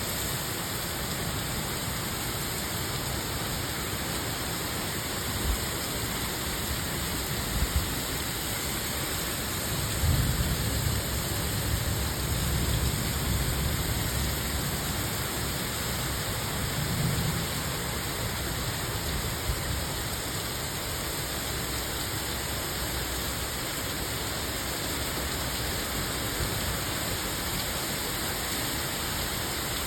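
Steady rain falling, an even hiss, with a few low rumbles rising under it, the longest about ten seconds in.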